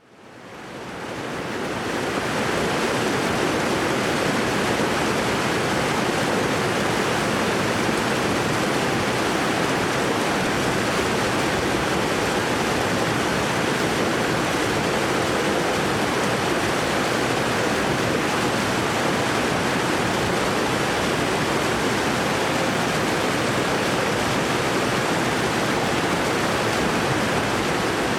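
Waterfall rushing in a steady, even roar of falling water, fading in over the first two seconds.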